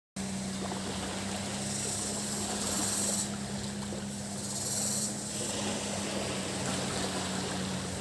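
A boat engine running steadily as a low hum over the wash of sea waves on the beach. Cicadas buzz at a high pitch on and off above it.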